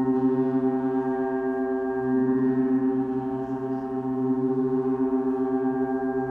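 Large planet gongs, tuned to planetary frequencies, ringing on in a sustained, gently pulsing wash of many overtones, with no distinct new strike.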